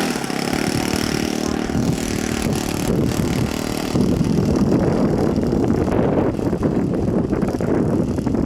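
Model airplane engine running with its propeller turning: an even hum at first, then louder and rougher from about four seconds in.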